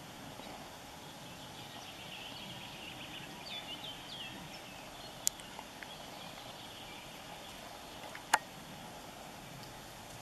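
Quiet outdoor ambience with a run of short, high bird chirps about three to four seconds in, and two sharp clicks, one about five seconds in and a louder one about eight seconds in.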